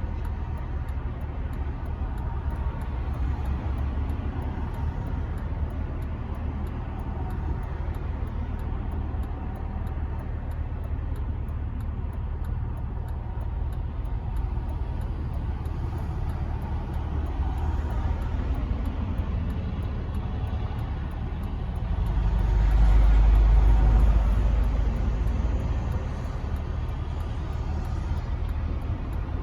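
Cabin noise of a Rover 75 V6 estate on the move: steady engine hum and tyre rumble with wind noise from part-open windows. The low rumble swells louder for a few seconds about three-quarters of the way through, then settles again.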